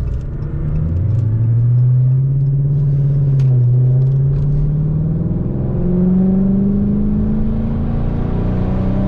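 A car engine under way, its note rising as it accelerates about a second in, holding steady, then climbing again to a higher steady pitch around six seconds in.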